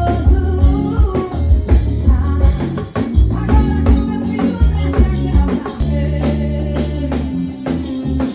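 Live band music: a drum kit keeps a steady beat under bass notes and melodic keyboard lines, with no clear singing.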